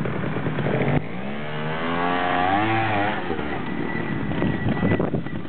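Trials motorcycle engine revving up and dropping back, its pitch climbing then falling over about two seconds, between stretches of rougher engine noise.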